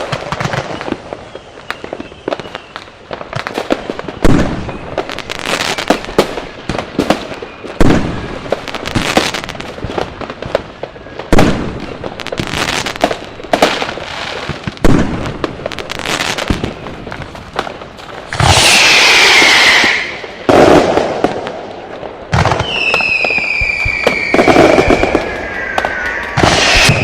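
Firecrackers and fireworks going off: a string of sharp bangs at irregular intervals, a dense loud burst of crackling about two-thirds of the way in, then several whistling fireworks with falling pitch near the end.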